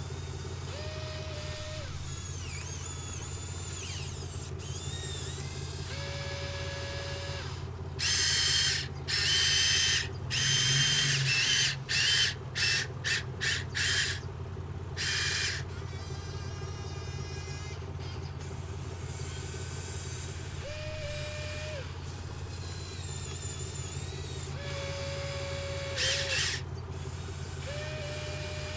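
Excavator machinery running with a steady low hum and short whining tones at intervals. About eight seconds in, a louder harsh whirring hiss starts and comes in a series of choppy bursts for several seconds, with one more short burst near the end.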